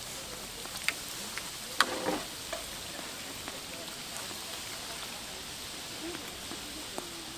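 Doughnuts frying in hot oil: a steady sizzling hiss, with a few sharp clicks and a knock about two seconds in.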